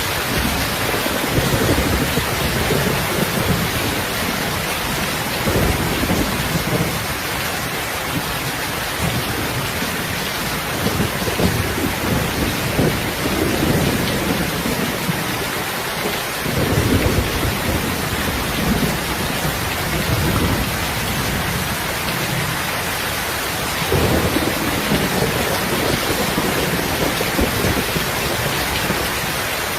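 Steady heavy rain hissing, with low rumbles of thunder swelling and fading several times.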